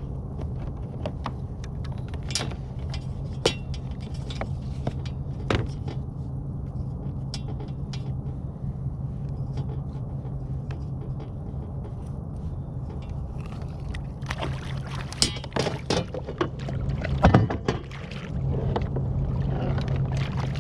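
Water sloshing around a kayak, with scattered sharp knocks and clicks from gear being handled against the hull. There is a flurry of louder knocks a few seconds before the end.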